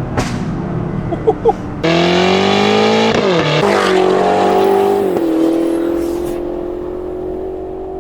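BMW X5M Competition's S68 twin-turbo V8 through free-flow downpipes and a full aftermarket exhaust. About two seconds in the sound jumps louder and the revs climb, dip briefly, then hold as a steady drone that slowly falls and fades toward the end.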